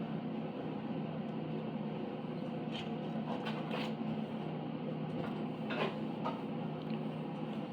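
A few light clicks and knocks as machine parts are shifted and fitted during assembly of a CNC machine's gantry, over a steady low hum.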